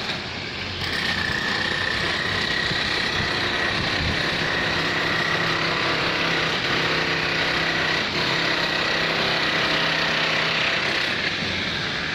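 A vehicle running steadily, with a constant high-pitched whine over a low rumbling hum.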